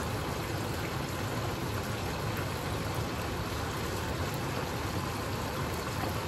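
Steady sizzling from pans on the stovetop, where chicken is frying and butter and garlic are cooking, with no separate knocks or clicks.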